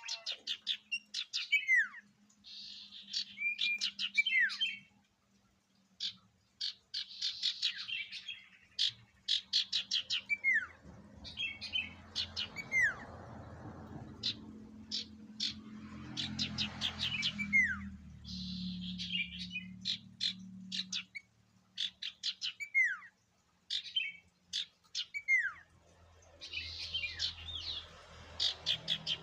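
Sirtu songbird singing in repeated phrases: a quick run of rapid, high chattering notes, each run ending in a downward-sliding whistle, with short pauses between phrases. A faint steady low hum sits underneath, with a low rumble through the middle.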